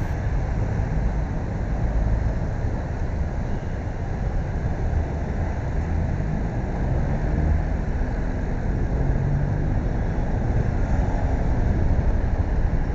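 Steady low wind and road rumble from riding a bike through city streets, with a faint vehicle engine hum rising and falling about halfway through.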